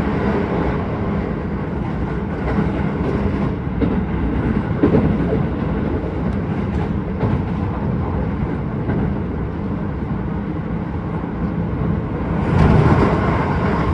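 Keisei 3000 series electric train running at speed, heard from inside the car: a steady rumble of wheels on rail, rising to a louder rush for a second or two near the end.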